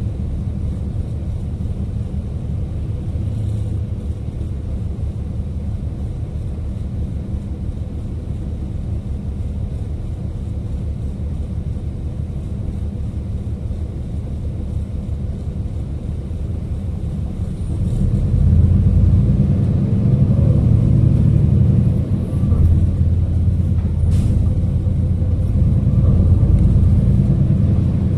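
City bus engine and road noise heard from inside the cabin: a steady low rumble that grows louder about two-thirds of the way through.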